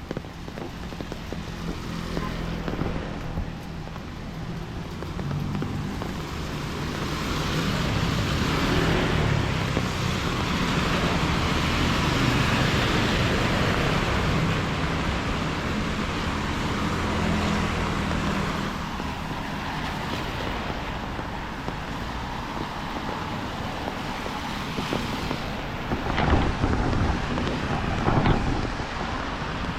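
Road traffic on a rain-wet street: vehicle engines with tyre hiss, swelling to its loudest through the middle as traffic passes and easing off later, with a few sharp knocks near the end.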